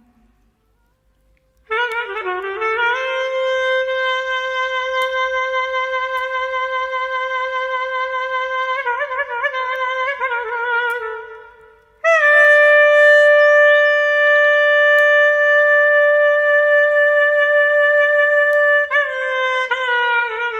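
Solo clarinet playing a slow melody of long held notes with small ornamented turns between them. It starts about two seconds in, fades briefly a little past the middle, then comes back louder on a slightly higher held note.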